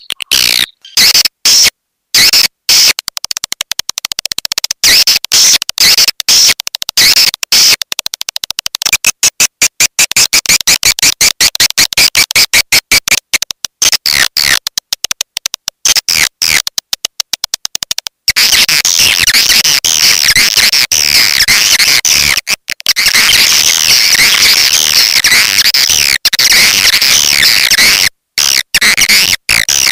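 Swiftlet lure call track of dense, high twittering chirps, chopped into rapid on-off pulses for the first half and running more continuously for most of the second half, before breaking up again near the end.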